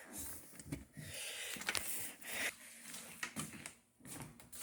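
Irregular rustling and small clicks and knocks of handling, with no fan motor running: the box fan's motor is dead and gives no hum.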